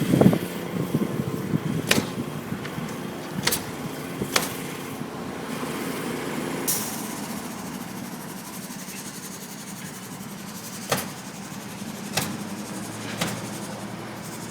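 Car engine idling, with a few sharp clicks and knocks; the engine hum fades out about seven seconds in, and a few more knocks follow.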